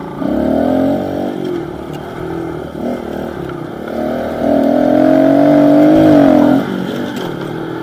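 Small pit-bike engine revving as it is ridden: a short burst of throttle just after the start, then a longer, louder pull held from about four seconds in before it drops back to a lower drone.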